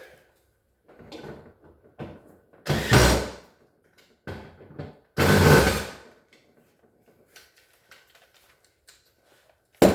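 Refrigerator parts being handled during reassembly: scattered knocks and clatters, with two louder sliding, scraping noises of under a second each, about three and five and a half seconds in.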